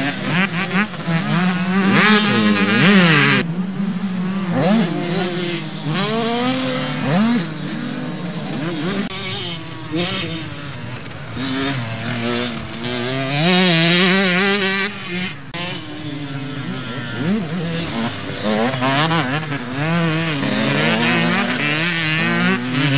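Several motocross motorcycles racing past together, their engines overlapping as each revs up and drops off through gear changes.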